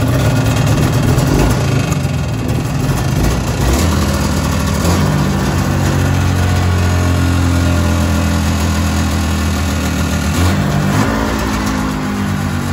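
1979 Kawasaki Intruder 440 snowmobile's fan-cooled two-stroke twin running just after starting on a little choke. It is uneven for the first few seconds, then settles into a steady idle, with a short blip of the revs about ten seconds in.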